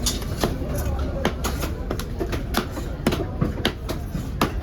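Knife or cleaver chopping fish on a cutting block: irregular sharp knocks, about two a second, over background voices and a low hum.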